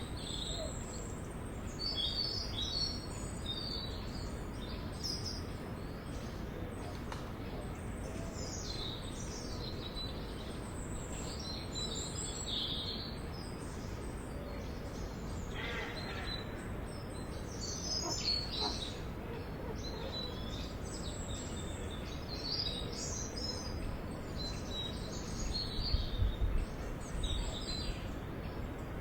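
Several forest songbirds chirping and trilling, with short high calls coming thick and fast over a steady background hiss, and one lower falling call about halfway through. There is a brief low rumble near the end.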